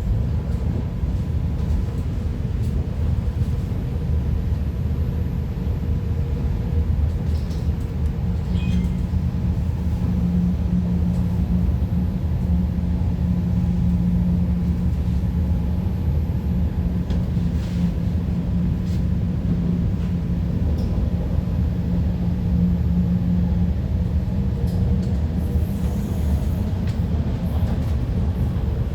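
MTR IKK-Train electric multiple unit running along the line: a steady low rumble of wheels on rail, with a steady motor hum that sets in about a third of the way through and fades near the end.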